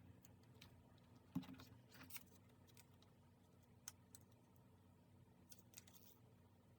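Faint scattered clicks and ticks of paper and stationery being handled on a desk during diary decorating, with one sharper light knock about a second and a half in, over a low room hum.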